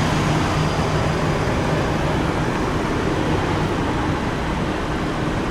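A 2015 Lexus NX 200t's 2.0-litre turbocharged inline-four idling steadily, an even running noise with a low hum.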